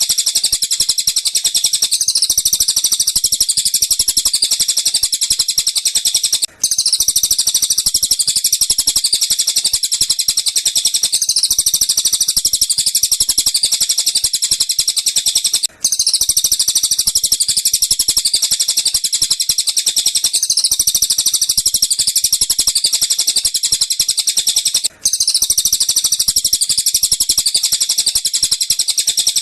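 Recorded bird calls used as song-training material: a fast, unbroken stream of high-pitched chirps meant to be tengkek buto and cililin calls, played on a loop. It breaks off for an instant three times, about nine seconds apart, where the loop restarts.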